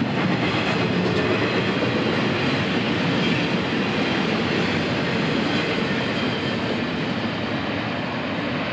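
Double-stack container train rolling past close by, its steel wheels running on the rails in a steady noise that eases slightly near the end.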